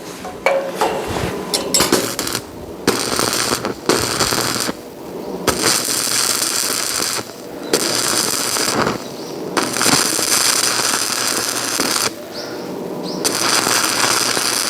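Electric arc welding: the arc crackles in about seven bursts of one to two and a half seconds each, with short breaks between welds.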